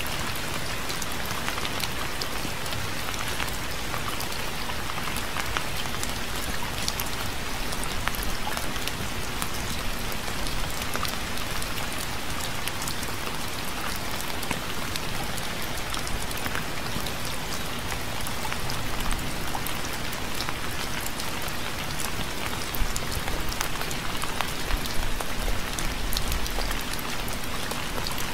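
Steady rain: a constant hiss with many individual drops ticking sharply through it, and a few louder hits in the last few seconds.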